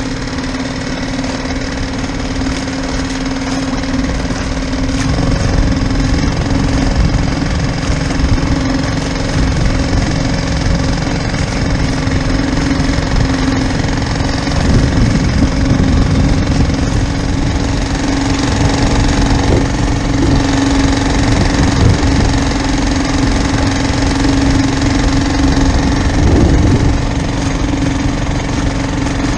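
Boat engine running steadily with a constant hum, growing a little louder about five seconds in.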